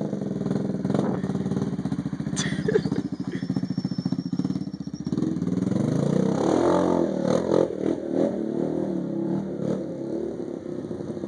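Honda CBR 125's single-cylinder four-stroke engine running steadily, then revving with rising pitch from about five seconds in as the bike moves off. Its clutch is hooked up backwards, so it drives only while the lever is held in.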